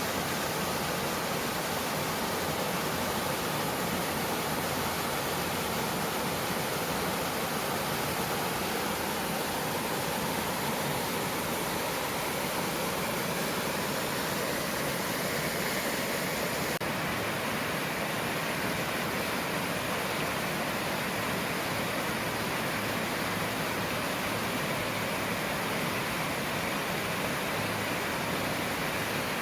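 Mountain stream water flowing and splashing over rocks, a steady, even rush of water.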